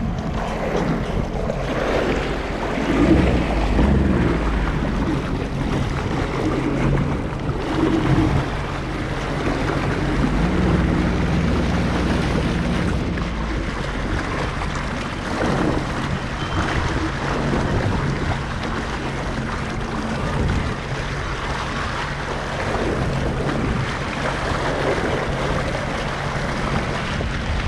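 Jet ski engine running steadily under way, with water rushing and splashing against the hull and wind buffeting the microphone.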